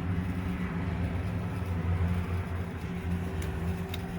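A steady low mechanical hum with a few held low tones, unchanging throughout.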